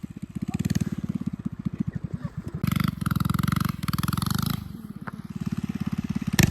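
Engine running with a rapid, pulsing beat, its revs and loudness rising and falling several times.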